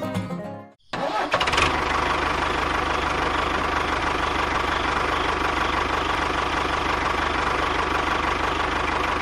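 An engine starts about a second in, after a brief gap, and settles into a steady, even running sound.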